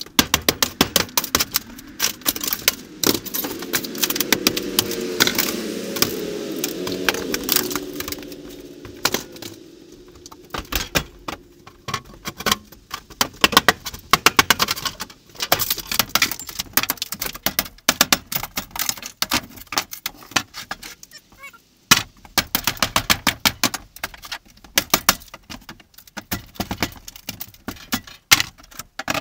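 Hand tools and metal parts clattering, knocking and rattling in quick irregular strokes as a camper's stove and kitchen fittings are dismantled, with a wavering pitched sound lasting a few seconds near the beginning.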